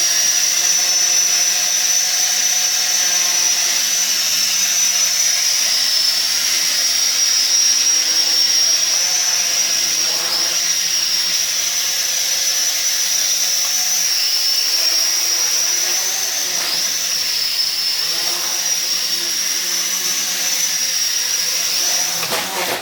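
Sky Viper v950 STR quadcopter's small electric rotor motors running in flight, a steady high-pitched whine that wavers slightly in pitch, cutting off near the end.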